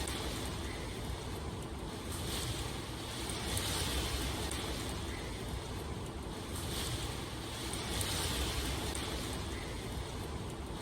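Steady rain, a dense rushing hiss over a low rumble, swelling and easing a little every few seconds.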